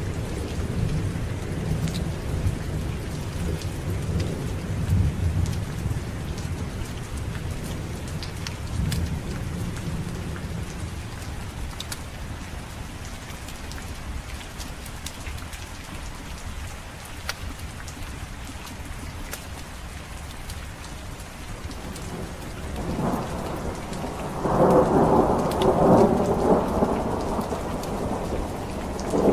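Steady rain falling, with thunder rumbling low at the start and fading away. Near the end a louder roll of thunder builds and stays loud.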